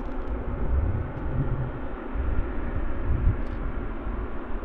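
Jet aircraft engine noise at the airfield, a steady rumble that swells twice.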